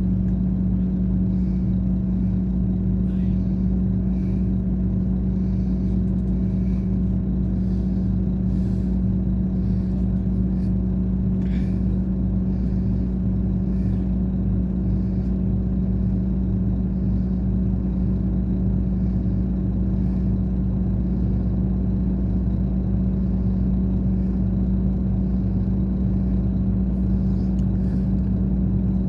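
Scania K420 coach engine running at a steady speed, a constant even drone with no change in pitch.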